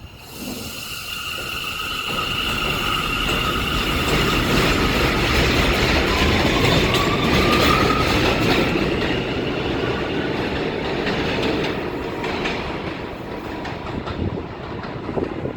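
New York City subway train on the BMT Jamaica Line running along the elevated station, its wheels squealing and clattering on the rails. The train builds to its loudest in the middle, then eases off.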